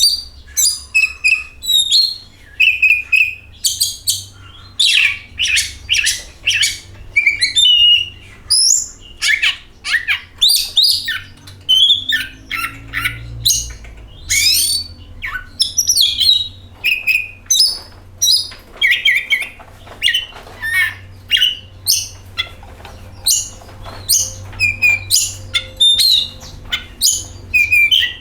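Oriental magpie-robin (kacer) singing a continuous, varied song of quick whistled and chattering notes, many sliding downward, in short phrases with brief gaps between them.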